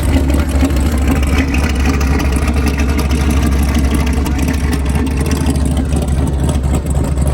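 A vehicle engine running steadily with a deep, constant low rumble.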